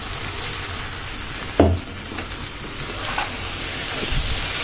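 Onions and tomatoes sizzling in hot oil in a frying pan while a slotted steel spoon stirs and scrapes through them, a steady hiss. One sharp knock comes about one and a half seconds in, with a few lighter clicks after.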